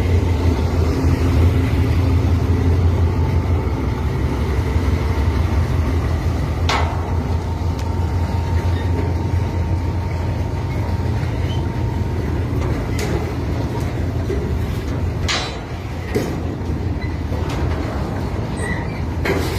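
Freight train rolling past: a steady low rumble of the cars on the rails, with a few sharp clanks along the way.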